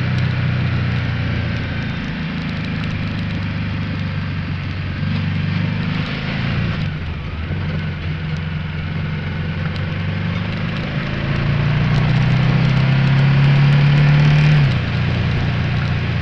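Ducati Multistrada 1200S's L-twin engine running on the move, with wind and road hiss over it. The engine note grows louder over a few seconds, then drops suddenly near the end.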